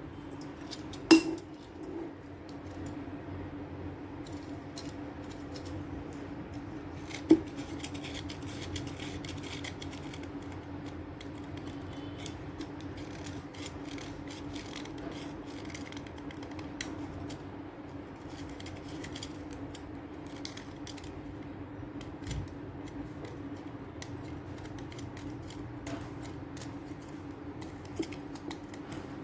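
Brittle sticks of chalk being cut and crunched, with small crisp clicks and crackles scattered throughout and two sharp snaps, about a second in and about seven seconds in, over a steady low hum.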